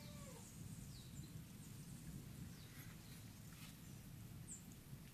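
Faint, steady low rumble of distant volcanic thunder from the erupting La Soufrière volcano, with a few faint, high bird chirps that fall in pitch scattered through it.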